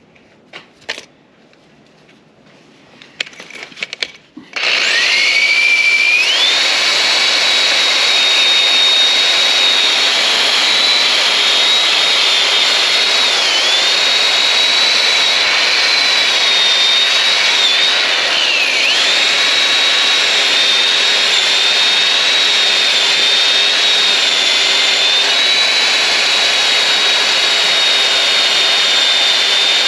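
A few clicks and knocks, then an electric drill spins up with a rising whine and runs steadily, driving a Nylox abrasive nylon brush against bedliner on a steel vehicle frame. The pitch dips briefly twice as the brush is pressed in. The brush is making little headway on the bedliner.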